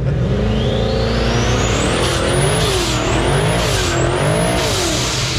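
Car engine revving hard: the revs climb for about two seconds, then rise and fall several times in quick succession, with a high whine that follows the revs.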